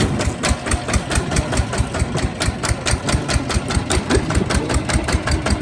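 Kubota ZT155 single-cylinder diesel engine running with a steady chug of about six or seven beats a second.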